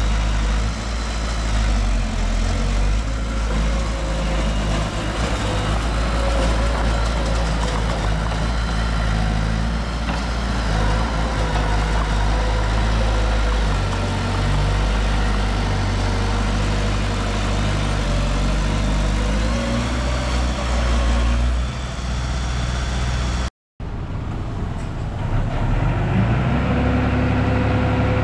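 Diesel engine of heavy earthmoving machinery running steadily. It cuts out briefly about three-quarters of the way through, then comes back with an engine note that climbs as it is revved.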